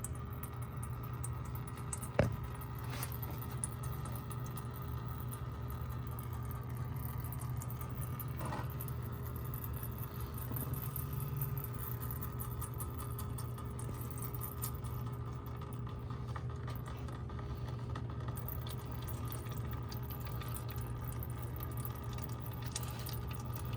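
Engine oil draining from the oil filter mount into a catch pan, over a steady low hum, with one sharp click about two seconds in.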